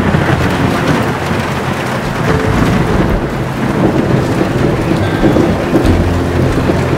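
Heavy rain falling steadily, with low rolling thunder.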